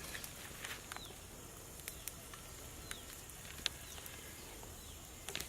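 Quiet forest ambience: a bird gives short falling chirps a few times, among scattered sharp clicks and crackles.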